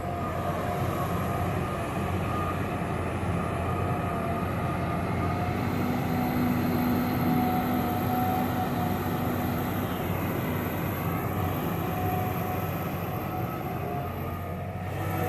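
John Deere 350G LC hydraulic excavator's diesel engine running steadily, a continuous machine hum, with an added steady tone for a few seconds in the middle.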